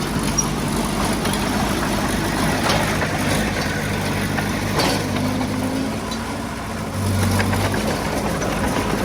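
Diesel engine of heavy earthmoving equipment running steadily, easing off slightly about six seconds in and picking up again about a second later.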